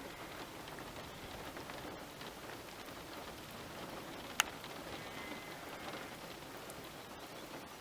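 Light rain falling steadily, a soft even hiss with scattered drop ticks and one sharp tick about halfway through.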